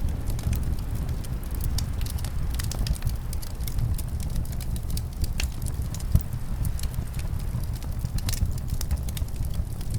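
Fireplace crackling: many small sharp pops and snaps over a steady low rumble of wind and flames.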